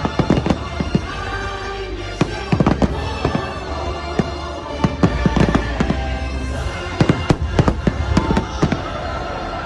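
New Year's Eve fireworks going off in rapid clusters of sharp bangs over a deep rumble, with show music playing underneath.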